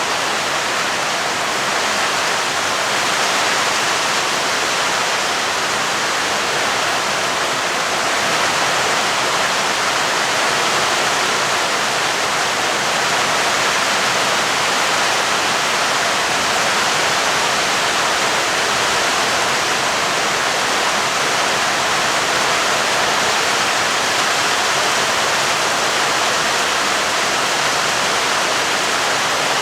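Heavy rain falling steadily, a dense, even hiss with no thunder in this stretch.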